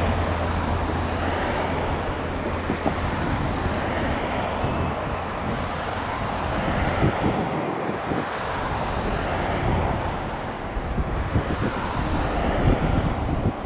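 Boeing 787 jet engines at low power as the airliner taxis off the runway after landing: a steady, even jet noise. Wind buffets the microphone in the second half.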